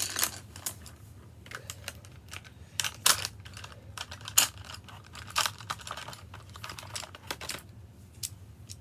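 Colouring markers clicking and clattering against each other as they are rummaged through and picked out: a quick, irregular run of sharp clicks with a few louder knocks.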